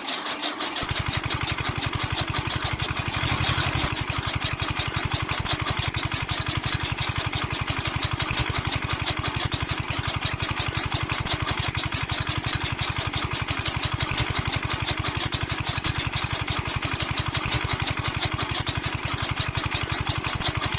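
Small motor of a homemade toy tractor running steadily with a fast, even buzz.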